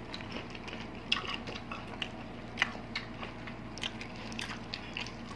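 Close-miked chewing and mouth sounds of people eating braised pork hock (pata tim), heard as irregular small clicks and smacks, several a second, over a faint steady low hum.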